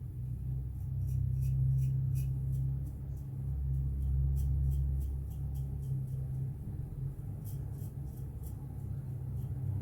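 Gillette Black Beauty safety razor scraping through stubble in short strokes, heard as a run of crisp scratchy clicks about a second in and again near the end, over a low steady hum.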